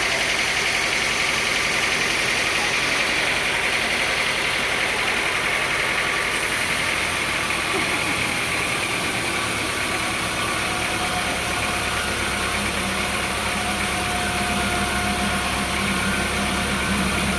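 Sawmill machinery running steadily, an engine drone with a continuous high hum.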